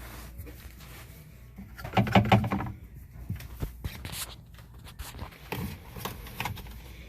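Scattered clicks and taps of hand tools and fasteners on a washing machine's metal cabinet as it is taken apart, with a short voice-like sound about two seconds in.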